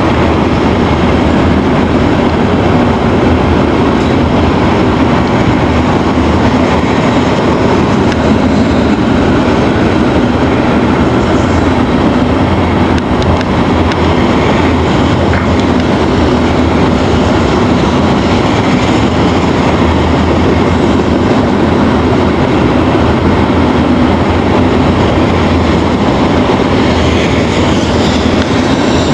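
Loaded tank-car freight train rolling steadily past, a loud, unbroken rumble of steel wheels on rail.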